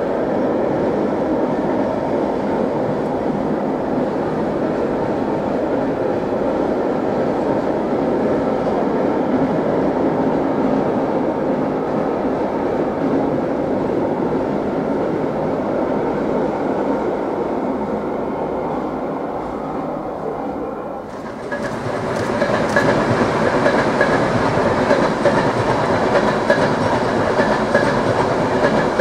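Freight train of intermodal wagons rolling past on the rails with a steady rumble and clatter, fading slightly. About 21 seconds in it cuts abruptly to a passenger train passing, louder and brighter.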